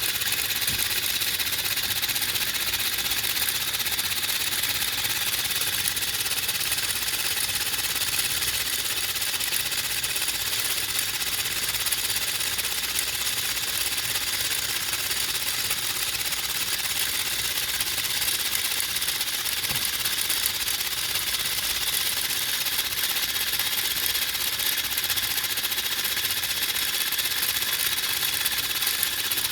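3D-printed single-cylinder compressed-air engine running steadily on air fed from a balloon, a fast even clatter with air hissing out through the vent port in the cylinder wall, which stands in for an exhaust valve.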